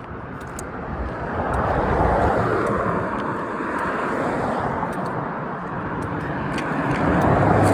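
Cars passing close by on the road, the tyre and engine noise swelling up about two seconds in and again near the end.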